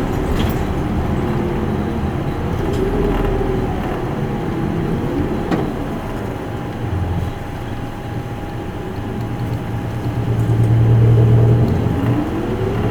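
Isuzu Erga Mio bus's diesel engine running as the bus drives, heard from inside, with the engine note gliding up and down. Near the end the engine gets louder and its pitch climbs as the bus accelerates.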